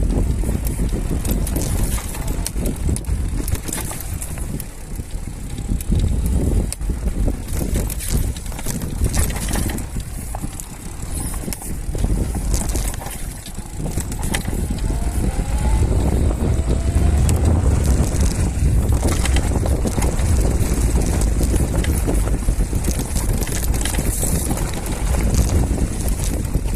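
Mukuta Knight e-bike riding down a dirt trail: wind rumbling on the microphone, tyre noise and frequent knocks and rattles from the bike over rough ground.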